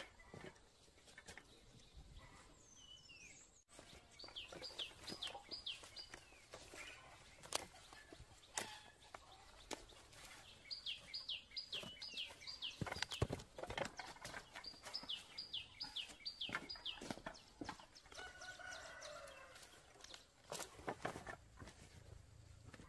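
A bird calling in quick runs of five or six falling high chirps, three times. Under it are scattered light knocks and rustles from banana bunches being handled and set down.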